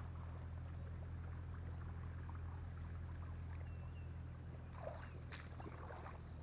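Light water sloshing and small splashes, busier near the end, over a steady low hum.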